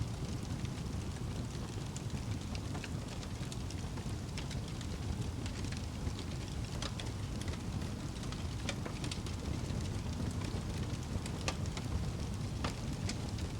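Wood fire burning in a fireplace: a steady low rumble of flames with frequent scattered crackles and pops.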